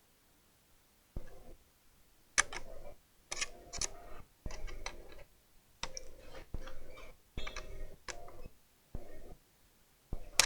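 Irregular clicks and light plastic clatter, about a dozen short bursts with brief gaps, from the casing and keyboard of a laptop being handled and taken apart.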